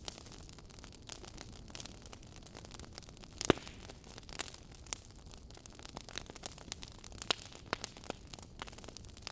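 Wood fire crackling in an open fireplace: irregular sharp pops and snaps over a soft steady hiss, with the loudest pop about a third of the way in.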